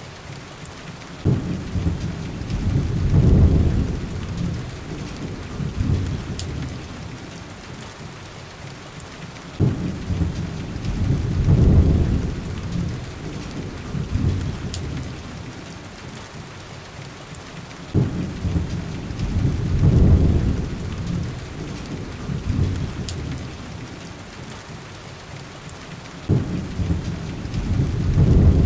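Steady heavy rain with low rolling thunder: four rumbles, each starting suddenly, swelling and dying away, about eight seconds apart.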